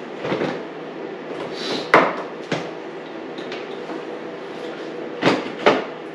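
Hand tools and motorcycle parts being handled during a teardown: a few scattered clanks and knocks, the sharpest about two seconds in and two close together near the end, over a steady background hum.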